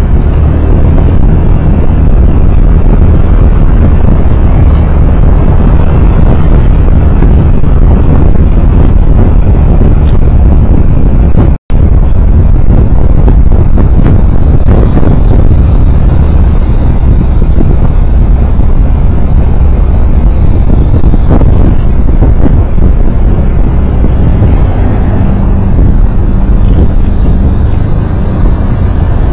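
Loud, steady vehicle driving noise: a continuous low rumble of engine and road. A split-second dropout to silence about twelve seconds in.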